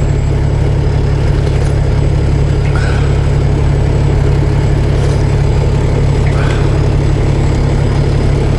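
Semi truck's diesel engine idling with a steady low rumble, with two faint short squeaks about three and six and a half seconds in.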